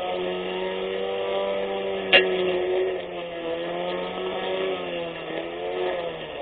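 24V brushless electric lawn mower motor running with a steady whine, its pitch sagging and recovering several times. A single sharp crack about two seconds in.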